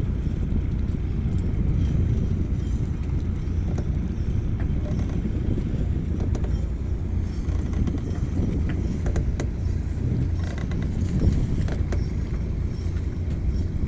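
Steady low rumble aboard a small fishing boat: the boat's engine running, mixed with wind on the microphone.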